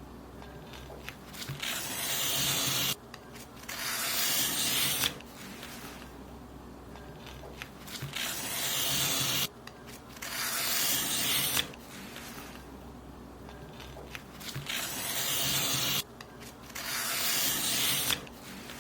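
Paper being cut in long, rasping strokes, about six of them, each growing louder and stopping abruptly, with short pauses between.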